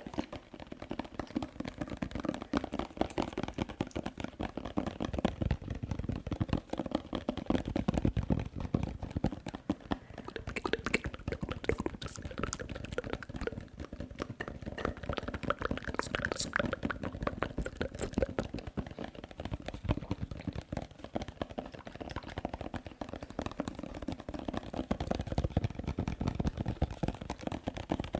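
Fast, dense tapping for ASMR, a steady stream of close clicks and taps, mixed with wet mouth sounds.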